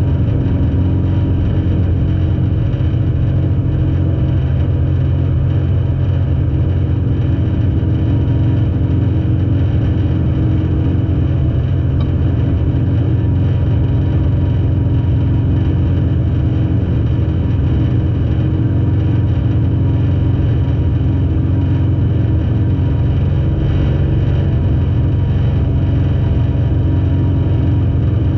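Demolition derby car's engine idling steadily, heard from inside the stripped-out cabin.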